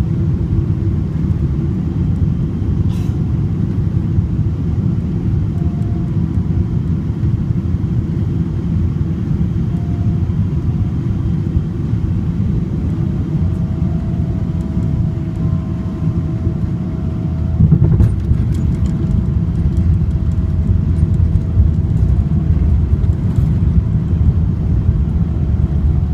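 Steady low rumble of a Boeing 777-200ER heard from inside the cabin as it comes in to land. About 18 seconds in there is a sudden louder jolt with rattling, and the rumble is heavier after it.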